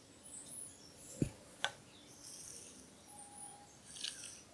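Quiet room tone broken by a soft low thump about a second in and a light click just after, with faint high chirps.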